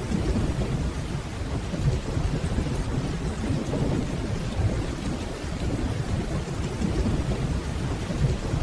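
Steady rainfall with low, rolling distant thunder rumbling continuously underneath.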